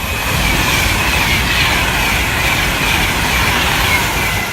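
Class 390 Pendolino electric train passing through the station: a loud, steady rush of wheel and air noise with a high whine that slowly falls in pitch.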